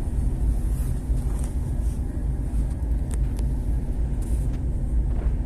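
A ship's engine running with a steady, low rumble.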